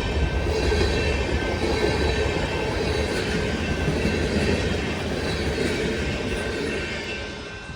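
A freight train's cars rolling past on the rails: a steady rumble of wheels on track with a thin, steady squeal from the wheels. It grows quieter over the last second or so.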